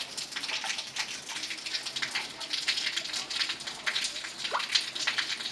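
Steady rain pattering down in many fine crackling drops. A short rising squeak comes about four and a half seconds in.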